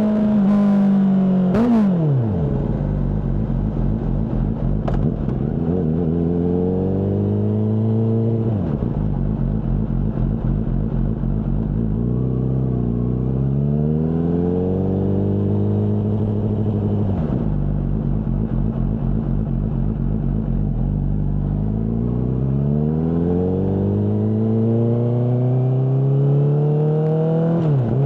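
Honda CBR600RR inline-four sport bike engine with a Mivv aftermarket exhaust, under way. Its pitch climbs steadily as it accelerates, then falls sharply as the throttle closes, about four times.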